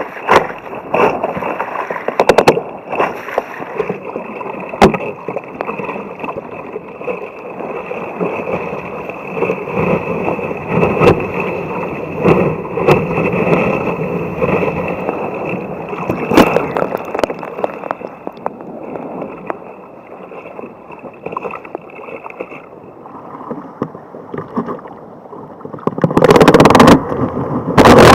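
Sea water rushing and sloshing around a kayak out in the surf, with scattered short knocks and splashes. Near the end a much louder rushing noise sets in.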